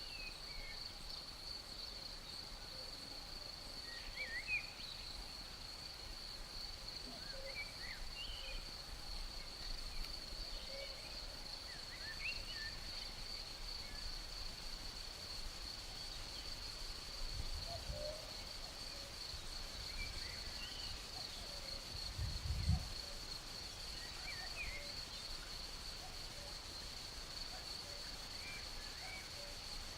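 A steady, high-pitched insect chorus trilling without a break, with scattered short bird chirps over it. Two brief low rumbles come past the middle.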